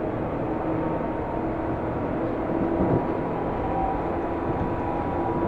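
Seibu New 2000 series electric commuter train running between stations, heard from inside the car: a steady rumble of wheels and running gear with a faint steady whine.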